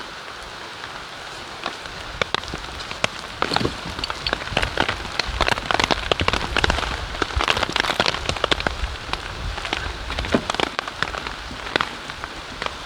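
Rain falling, with many sharp drop ticks on a surface close by; the drops come thickest in the middle stretch.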